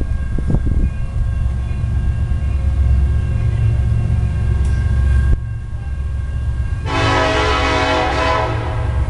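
Union Pacific freight train rumbling steadily past. About seven seconds in, the locomotive's air horn starts a loud, sustained blast.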